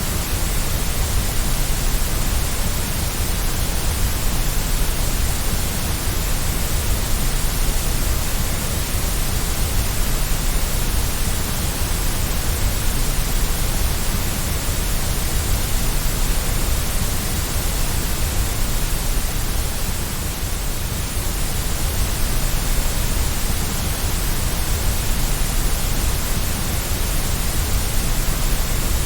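Steady white noise for sleep, an unbroken hiss with a strong low rumble beneath it and no changes.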